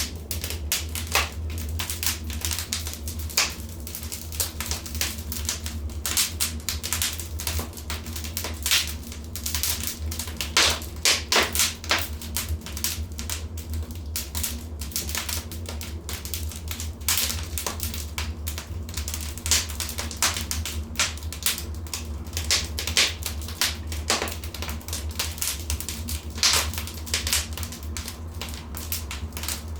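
Fire burning in a fireplace, crackling with frequent irregular snaps and pops over a steady low rumble.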